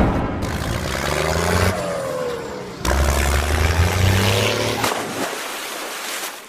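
Vehicle engine revving, its pitch rising and falling, with a sudden jump in loudness about three seconds in and fading away at the end.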